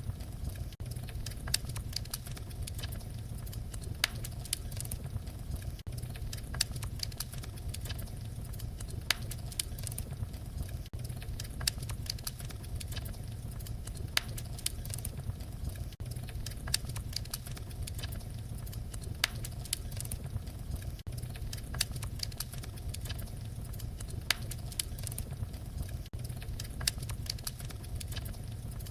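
Fireplace wood fire crackling: frequent sharp pops and snaps over a steady low rumble of the flames.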